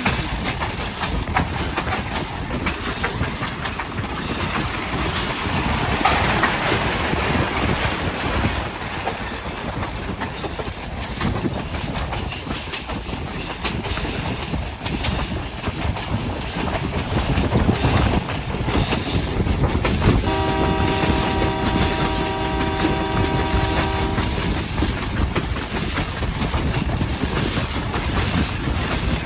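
Hazara Express passenger train running on the track, its wheels clattering over the rail joints with a steady rumble. About two-thirds of the way through, a multi-note train horn sounds once and holds for about four seconds.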